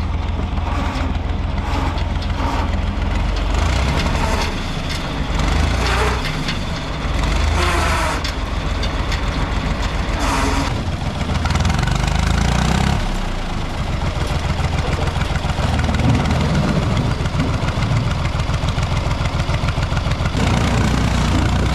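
An old car's engine running steadily, with a fast, even firing pulse and a few brief louder moments.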